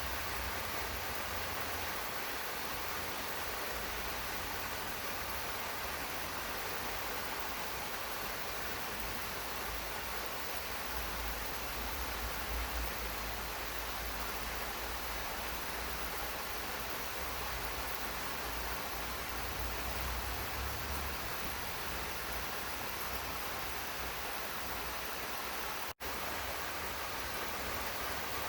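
Steady rain falling, an even hiss with a low rumble underneath; it cuts out for an instant near the end.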